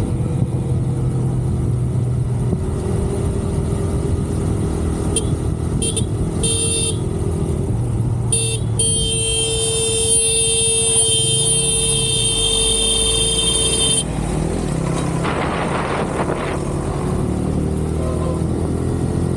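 Motorcycle engine and road noise while riding, with a vehicle horn sounding several short toots and then one long blast of about five seconds, a warning honk at a truck pulling out across the road.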